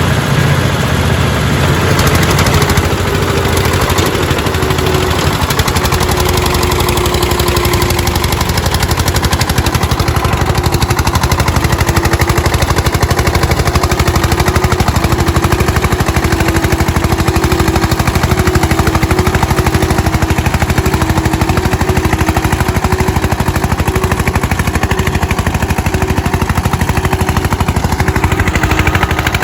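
Eicher 241 tractors' single-cylinder diesel engines working hard under heavy load in a tug-of-war pull, a rapid, steady pounding exhaust beat.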